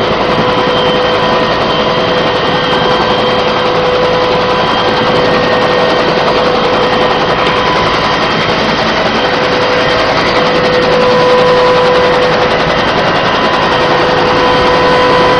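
Helicopter in flight, heard from inside the cabin: a loud, steady noise of rotor and engine with a few steady whining tones above it.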